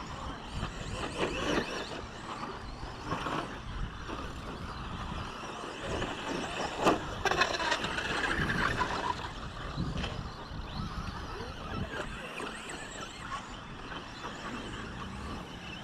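Radio-controlled 2WD short course trucks running on the track during a race, with a sharp knock about seven seconds in.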